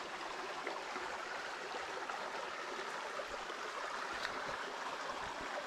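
Small forest stream flowing: a steady rush of running water.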